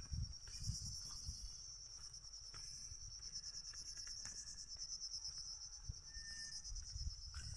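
Insects, crickets or cicadas, droning steadily at a high pitch with a fine pulsing texture. Low thumps come in the first second and again near the end.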